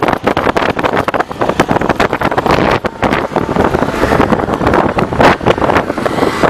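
Wind buffeting the microphone of a camera on a moving bike, loud and gusty, with the vehicle's running noise underneath.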